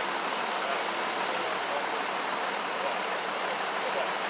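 Steady road traffic noise: an even, unbroken rush of passing vehicles with no single sound standing out.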